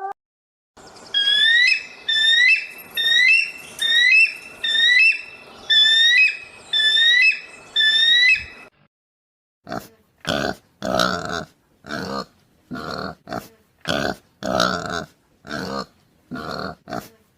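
Animal calls: a fast run of short high peeps, each rising at the end, then after a brief pause a series of short rough grunts about twice a second.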